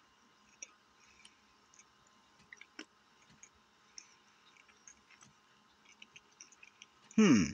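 A person chewing a mouthful of steak-and-onion biscuit sandwich, with faint scattered clicks of the mouth. Near the end, a brief loud vocal sound from the eater that falls in pitch.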